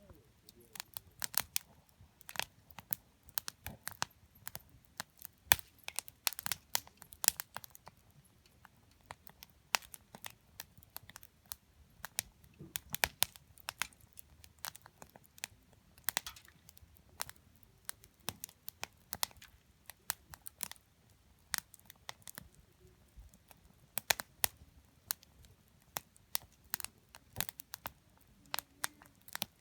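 Wood campfire crackling, with frequent sharp pops and snaps at irregular intervals.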